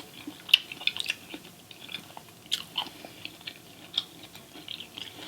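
Close-miked chewing of seafood: irregular wet mouth clicks and smacks, several a second.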